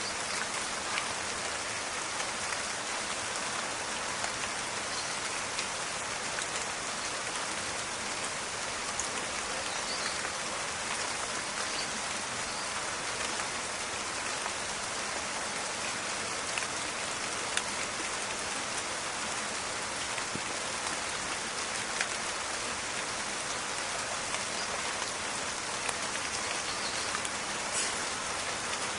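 Steady rain falling, an even hiss with scattered sharper pattering of individual drops.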